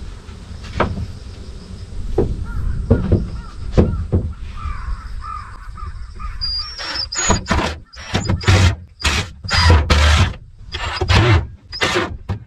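A bird giving a run of about eight harsh, cawing calls in quick succession over the second half, after a few scattered knocks in the first half.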